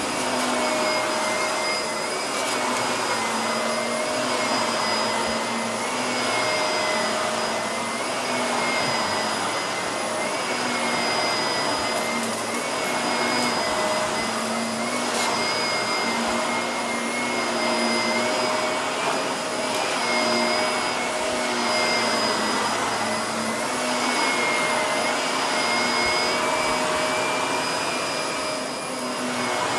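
Vacuum cleaner running steadily, its motor whine wavering slightly in pitch as it is pushed back and forth over carpet. A few brief crackles of debris are sucked up about twelve and fifteen seconds in.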